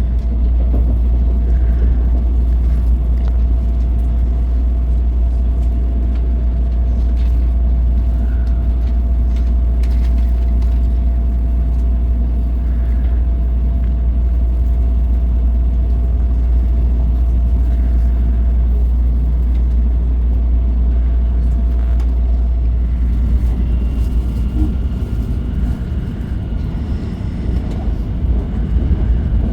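Shinkansen running at speed, heard from inside the passenger car: a loud, steady low rumble with a faint whine that stops about two-thirds of the way through.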